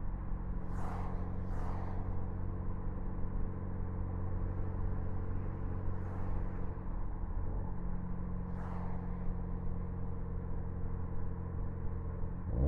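Ford Focus ST engine running steadily at constant revs, with a few faint, brief hisses on top.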